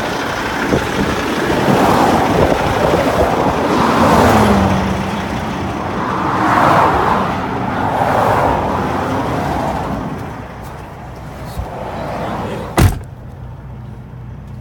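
Road traffic: vehicles passing one after another, each swelling and fading, with one falling in pitch as it goes by about four seconds in. A sharp click comes near the end, after which the sound is quieter.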